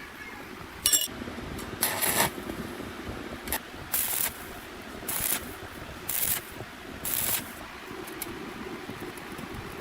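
A single sharp metallic clink, then five short hissing bursts, each under half a second and about a second apart, over a steady low hum.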